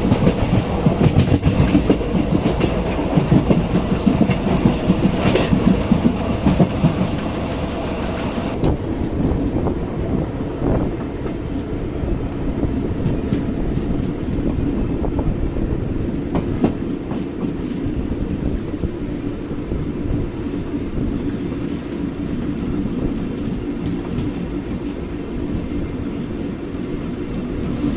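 Indian Railways passenger train running along the track, heard from aboard: a steady rumble of the coaches with the clickety-clack of the wheels over rail joints. About eight seconds in the noise turns abruptly quieter and duller, then carries on steadily.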